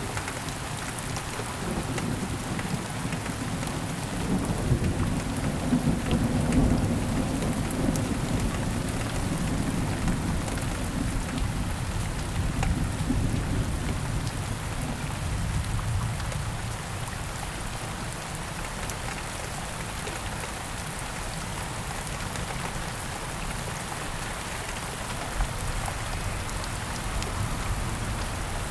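Steady heavy rain falling, with a long low roll of thunder that builds in the first half and fades away, leaving the rain alone.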